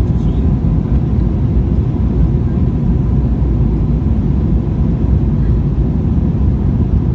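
Steady rumble of an Airbus A320's engines and airflow heard inside the passenger cabin, even and unbroken, with a faint steady tone above it.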